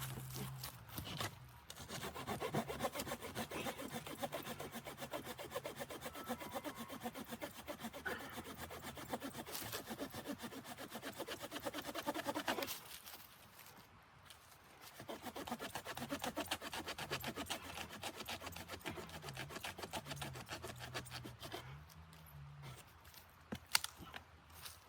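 Hand saw cutting through wood in quick back-and-forth strokes, in two bouts with a pause of about two seconds between them.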